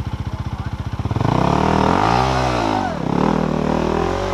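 Trail motorbike engine pulsing at low revs, then revved hard about a second in, its pitch rising and falling as the rider works the throttle to climb out of the creek.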